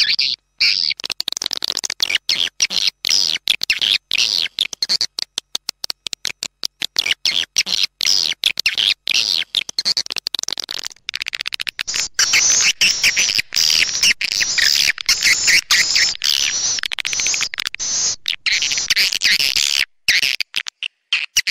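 Swiftlet lure-call recording: dense, high twittering of edible-nest swiftlets, chopped into rapid bursts with short dead-silent gaps. It grows denser and louder about twelve seconds in.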